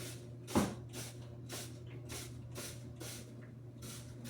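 Hand cleaning on an engine: short swishing strokes, about two a second, with one sharp knock about half a second in.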